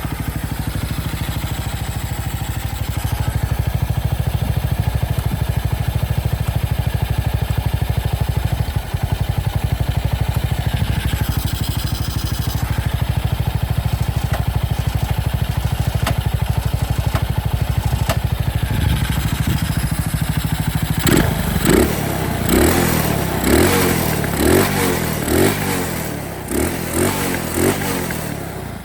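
Honda XL230's single-cylinder four-stroke engine idling steadily, then revved in a quick series of short throttle blips for the last third.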